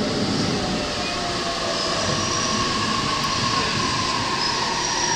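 Steady train rumble and rail noise at a station platform, with faint whining tones joining about two seconds in.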